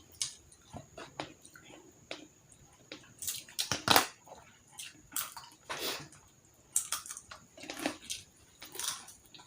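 Close-miked eating: wet chewing, smacking and mouth clicks coming irregularly, the loudest about four seconds in.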